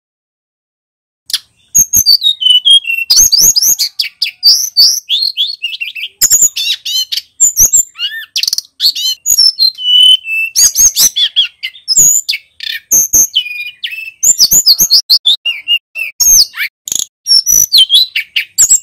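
Male tledekan gunung singing loudly: a fast, continuous run of high whistled notes and quick rising and falling sweeps, starting about a second and a half in.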